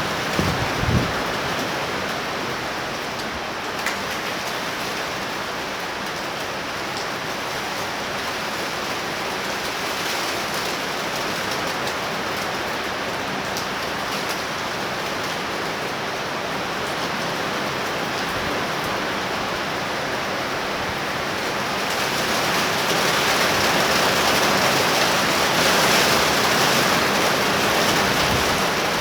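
Heavy thundershower rain pouring down in a steady hiss, growing louder about twenty-two seconds in. Wind buffets the microphone briefly in the first second.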